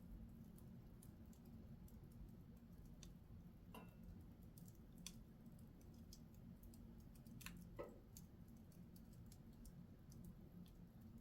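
Wood fire in a fireplace crackling faintly, with scattered sharp pops over a steady low hum. A few louder pops come about four seconds in and again near eight seconds.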